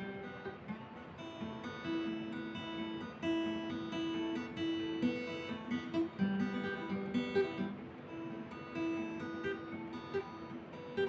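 Background music: an acoustic guitar plucking and strumming a slow melody, with notes ringing on.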